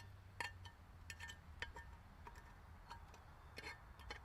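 Faint, irregular light metallic clinks, a dozen or so, each with a short ring at the same few pitches.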